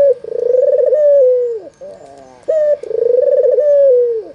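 White red-eyed (albino) puter dove cooing twice. Each call is a short rising note followed by a long rolling coo that drops away at the end.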